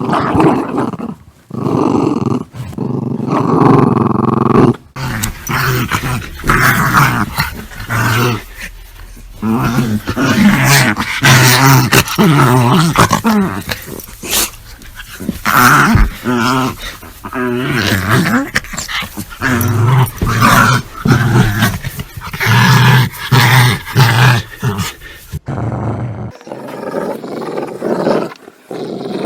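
Dogs growling in repeated short, uneven bursts, the recording changing to a different growl about five seconds in and again near the end.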